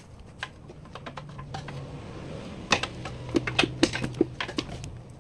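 A run of quick, irregular clicks and taps, busiest from about two and a half to four and a half seconds in, over a low steady hum.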